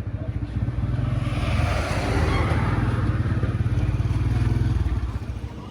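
Vehicle engine running with a fast, even pulse. A swell of hissing noise rises and falls in the middle, and the engine sound drops away about five seconds in.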